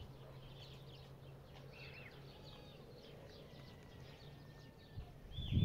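Birds chirping faintly over a steady low hum; the hum stops near the end and a loud low sound swells up just before the end.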